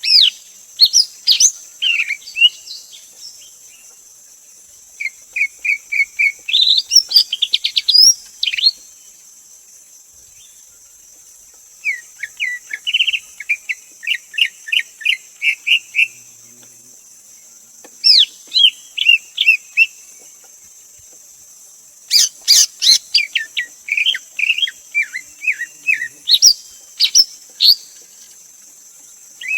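Greater green leafbird singing: phrases of rapid, sharp whistled and chattering notes, separated by pauses of a few seconds. A steady high hiss runs behind.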